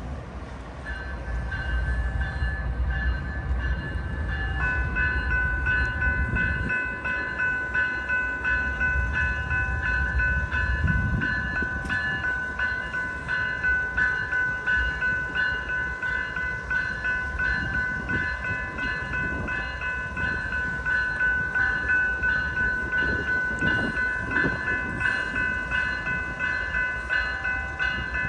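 Railway crossing bells ringing steadily at about two strokes a second, with more bell tones joining about four seconds in, over the low rumble of a train on the tracks.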